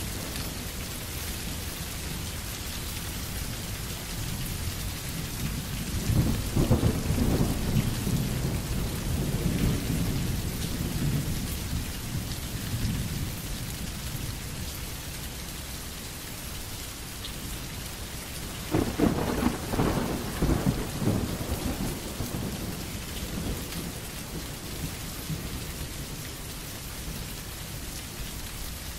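Steady rain with two rolls of thunder over it: a long rumble starting a few seconds in and fading away slowly, and a second, crackling roll a little past the middle.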